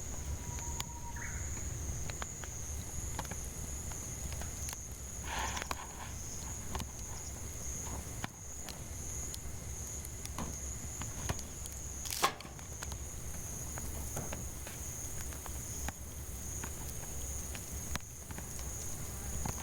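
Firewood crackling in a campfire with scattered small pops and one sharp crack about twelve seconds in, over a steady high drone of cicadas. A bird gives a short call near the start.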